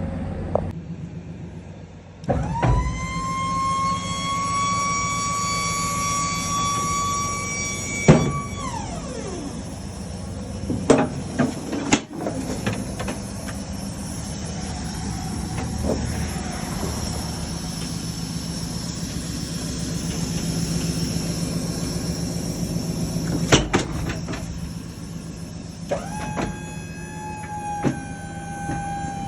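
A vehicle engine running steadily, with a high whine that rises quickly about two seconds in, holds for about six seconds and glides down. A few sharp knocks follow, and a second, slightly lower whine starts near the end.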